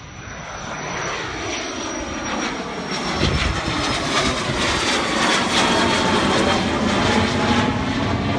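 A fixed-wing airplane's engines growing steadily louder, then holding loud, with a high whine falling slightly in pitch early on and a deep rumble joining about three seconds in.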